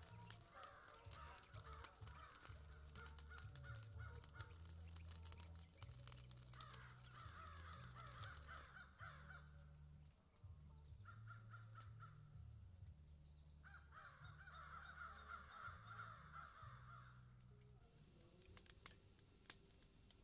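Faint bird calls coming in bouts of two to three seconds, over a low hum.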